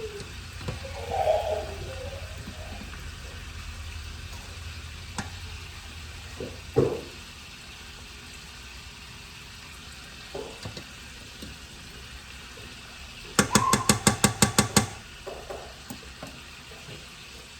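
A spoon stirring a pot of red beans with sofrito and spices over a low sizzle, with a few knocks against the pot. Near the end comes a quick run of about ten sharp taps, the loudest part.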